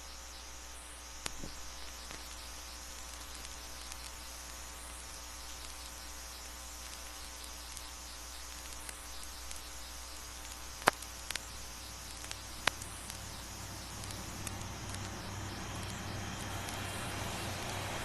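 Concorde on the ground before engine start: a steady hum and hiss with a few sharp clicks. A rushing sound builds over the last few seconds as an engine begins to spool up.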